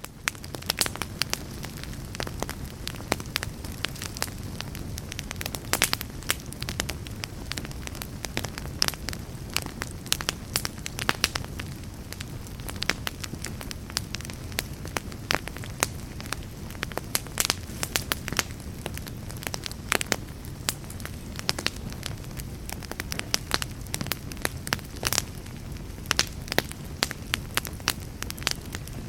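Wood fire of burning logs in a fireplace: a steady low rush of flame with frequent sharp, irregular crackles and pops.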